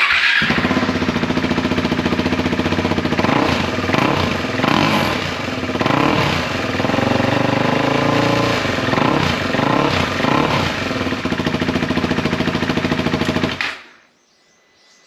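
KTM Adventure motorcycle engine running through an aftermarket exhaust with the pre-muffler removed: it starts up, idles, is revved several times, then is switched off near the end. The exhaust note sounds more like a dirt bike.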